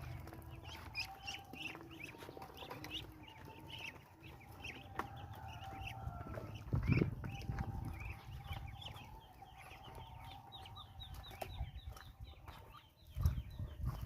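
Ducklings peeping: a steady stream of short, high, falling peeps, several a second. A dull thump about seven seconds in and more bumps near the end.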